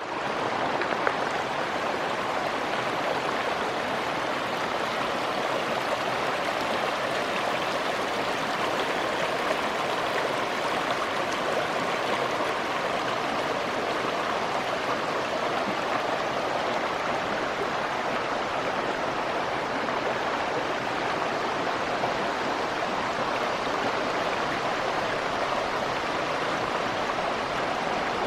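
A small stream running over stones: a steady, even rush of water.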